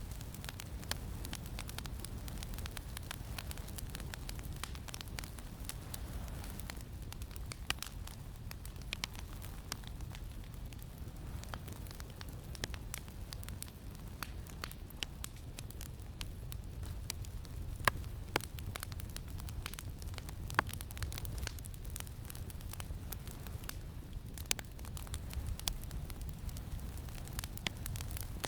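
Campfire crackling with irregular sharp pops and snaps, over a steady low wind rumble.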